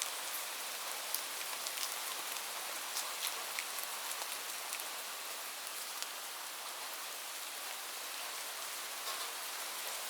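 Steady rain falling on a surface, an even hiss with many separate drops ticking through it, more of them in the first few seconds.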